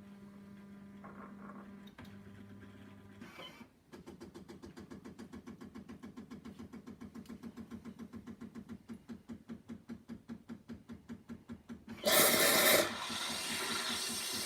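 Miele CM 7300 super-automatic espresso machine running through a cycle: a steady low hum, then a rhythmic mechanical pulsing of about five beats a second for about eight seconds. About twelve seconds in, a sudden loud hissing burst is followed by steady hissing.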